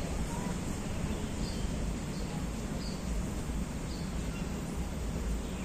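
Outdoor forest ambience: a steady low background hum with faint, short high chirps about once a second.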